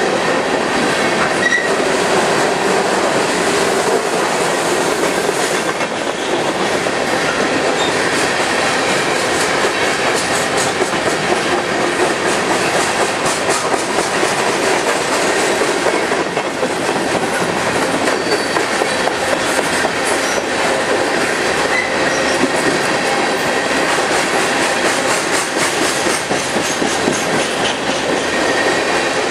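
Empty Union Pacific steel coal hopper cars rolling past close by: a steady, dense rolling noise of steel wheels on rail, with a few brief faint high squeaks.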